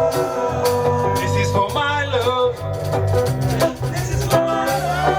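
Live lovers rock reggae band music: a steady bass line under held melodic notes and regular drum hits.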